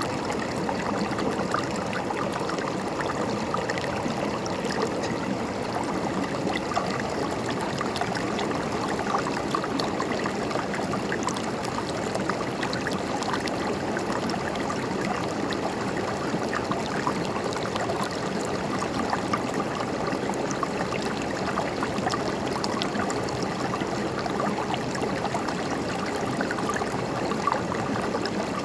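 River water flowing and gurgling steadily over rocks, a constant rush with fine splashing detail.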